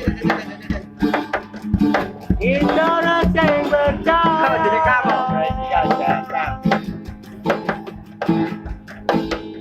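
Live band music with repeated drum beats and plucked strings. A sliding, wavering melody line comes in about two seconds in and fades out by about five seconds.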